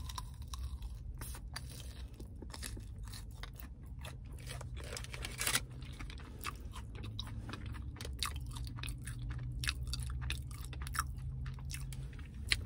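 Close-up chewing of a crunchy, breaded, deep-fried cheesy jalapeño popper, many short crisp crunches through the mouthful, over a low steady hum.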